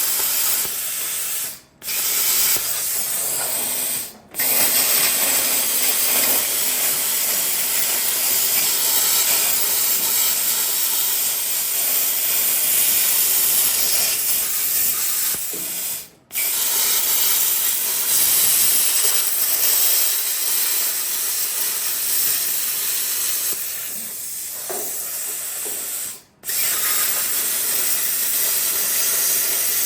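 Steady loud hiss of metalwork on sheet steel, plasma cutting or welding. It breaks off sharply four times and comes straight back.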